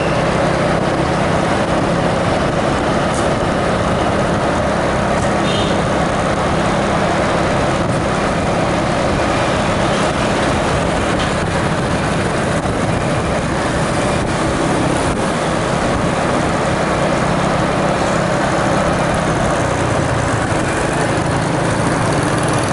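An engine running steadily: a constant low hum under an even, loud mechanical noise.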